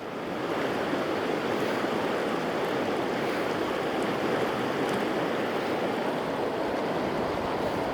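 River water rushing steadily over small rapids.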